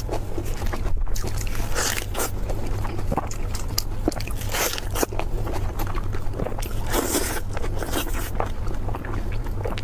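Close-miked crunching and chewing of crispy food, with a crackly bite every couple of seconds and louder crunches about two, four and a half, and seven seconds in. A low steady hum lies underneath.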